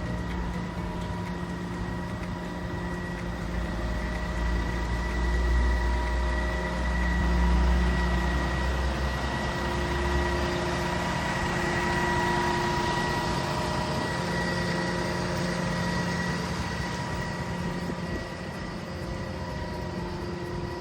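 Truck idling with a steady high whine, and a deep rumble that drops away about halfway through.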